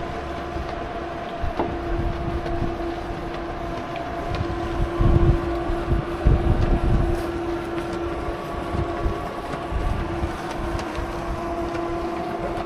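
Mountain bike rolling along at speed: a steady humming whine from the bike under uneven wind buffeting on the action-camera microphone, which gets heavier about five to seven seconds in.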